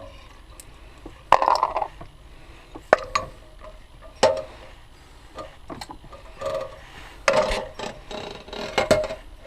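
Irregular clicks, knocks and light clatter of small parts and tools being handled on a workbench, with some rustling between the knocks.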